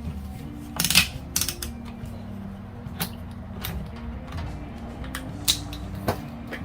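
Scattered clicks and light knocks from handling a multimeter and its test leads, a handful of sharp ones spread across a few seconds, over soft background music.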